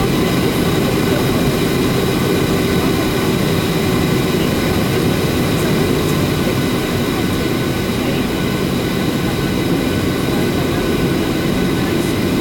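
Boeing 737-800 jet engines running steadily: a constant rushing noise with a steady hum underneath and faint steady whine tones above it.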